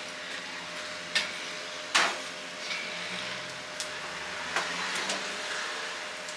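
Kitchen work at a charcoal chicken-grilling stall: a steady hum with four or five sharp knocks, the loudest about two seconds in.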